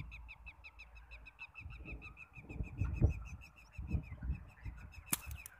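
A bird calls a fast, even run of identical short high notes, about eight a second, that fades out around four seconds in. Under it, wind rumbles on the microphone in gusts, and a single sharp click comes near the end.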